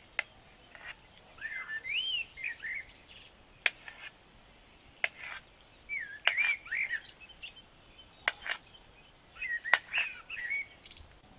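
A small bird chirping in three short bouts of quick, rising and falling whistled notes. Between them come several sharp clicks of a knife edge striking the plate as it cuts a soft cooked egg slab into cubes; the clicks are the loudest sounds.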